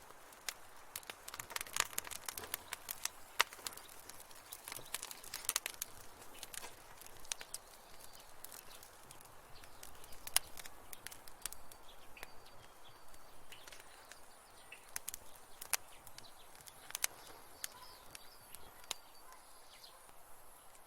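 Wood fire crackling in a fireplace: irregular sharp pops and snaps over a soft steady hiss, busiest in the first few seconds and sparser afterwards.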